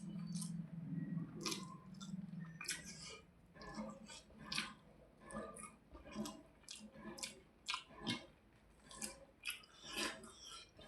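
Close-miked chewing of a mouthful of rice and hilsa fish, with many short, wet clicks and smacks. A low steady hum runs under the first three seconds.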